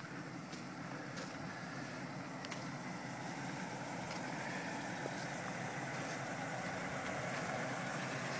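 Four-wheel-drive vehicle's engine idling steadily, growing slightly louder, with a few faint clicks.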